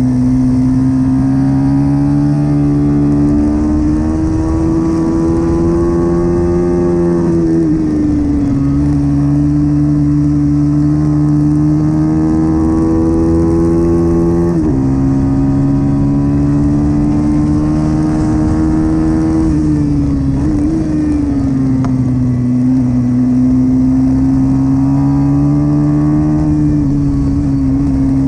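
Pit bike engine running hard at race pace. Its pitch climbs slowly and then drops sharply about three times, near 7, 15 and 20 seconds in, as the throttle is rolled off and opened again.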